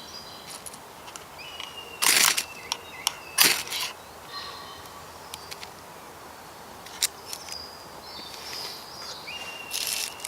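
Two short, harsh scrapes about a second apart, a couple of seconds in, with a few small clicks afterwards. Birds sing faintly in the background.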